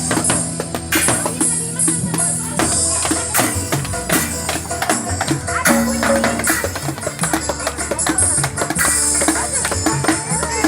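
A live band playing a song through a sound system at a sound check. There is a steady bass line under drums and bright, jingling percussion.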